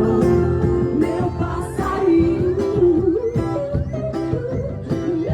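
A song played by a band, with singing over strummed acoustic guitar in a steady rhythm.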